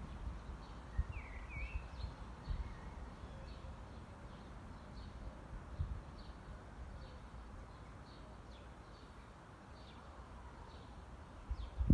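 Quiet outdoor garden ambience: a bird gives a couple of short chirps about a second in, faint short high chirps repeat about twice a second, and a low rumble with a few soft thumps sits underneath.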